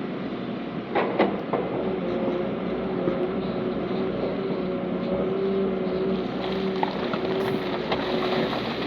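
Heavy diesel earthmoving machinery running steadily under load, with a few sharp knocks and clanks, about a second in and again later, such as rock or steel tracks striking.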